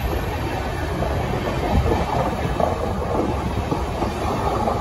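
Passenger coaches of the Jan Shatabdi Express rolling past close by: a steady rumble of wheels on rail with irregular clattering knocks over the joints.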